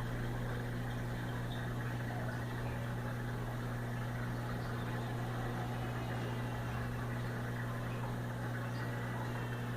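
Aquarium pump humming steadily, with a low mains-frequency drone over a soft rushing of water.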